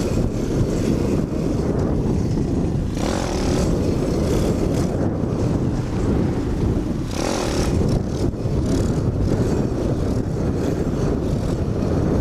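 Pit bike riding along under way, with heavy wind rumble on the helmet-mounted microphone. It swells briefly a couple of times.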